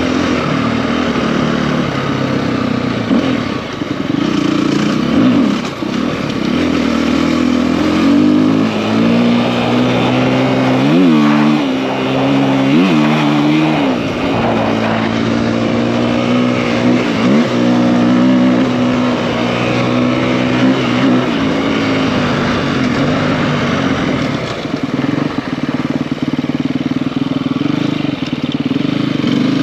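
Single-cylinder four-stroke engine of a KTM EXC-F enduro bike with a 280 big bore kit, running under way with the revs changing: fairly steady at first, then several quick drops and rises in pitch through the middle, as with throttle changes and gear shifts, and steadier again near the end.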